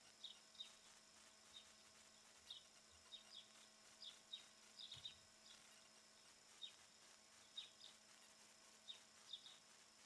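Faint, short chirps of small birds, each dropping in pitch, coming irregularly about two a second.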